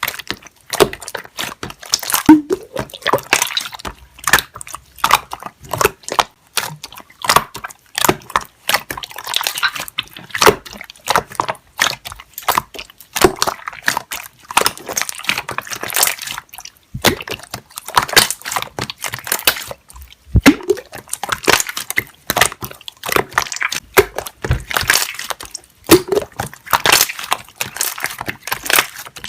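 Slime being squeezed and pressed, its trapped air bubbles popping in quick, irregular clicks and squelches.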